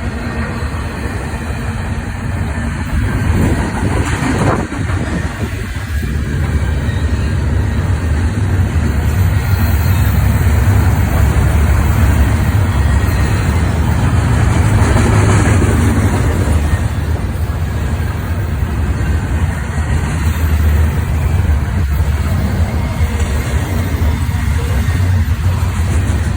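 Freight train of autorack and intermodal cars rolling past, a steady loud rumble of steel wheels on rail that swells slightly midway.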